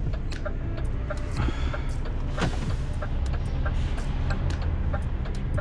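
Truck engine running, heard from inside the cab, with a steady low hum. Sharp ticking clicks repeat about three times a second.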